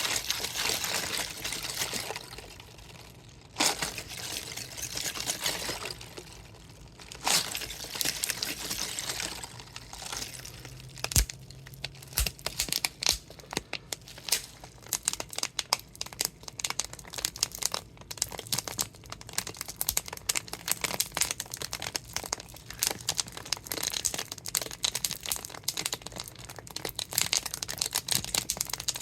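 Crinkly, partly frozen plastic water bottle being squeezed and handled, its plastic crinkling while water and ice slosh inside. For the first ten seconds or so the crinkling comes in swells; after that it turns into a run of rapid crackles and clicks.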